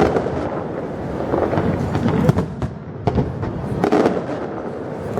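Fireworks going off in quick succession: repeated sharp bangs and crackles over a continuous rumble of explosions.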